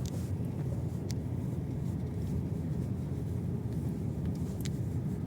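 Car driving, a steady low rumble of road and running noise, with a few faint ticks over it.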